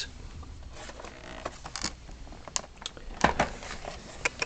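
Faint handling sounds: a few light clicks and taps, with soft rustling in between, as model train boxes are handled.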